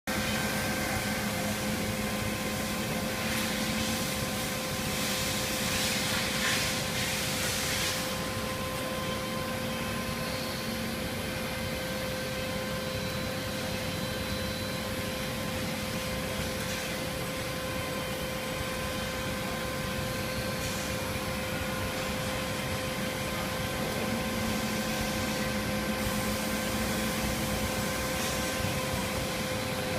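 Steady mechanical hum of a motor-driven line feeding rolled saw blade past an inkjet coder, with a few constant tones and hiss. An extra rushing hiss rises for a few seconds near the start.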